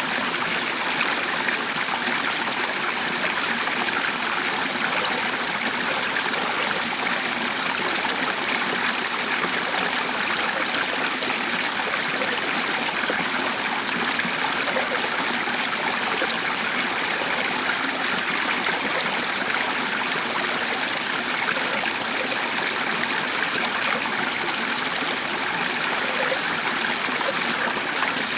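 A stream flowing steadily: an even, unbroken sound of running water.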